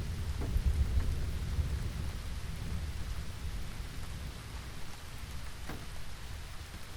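Steady rain falling on a surface, with a low rumble of thunder that is strongest in the first couple of seconds and then fades.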